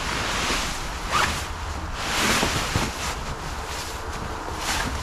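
Dry leaves rustling and sliding out of a fabric lawn-tractor leaf collection bag as it is shaken out, in several separate swishes.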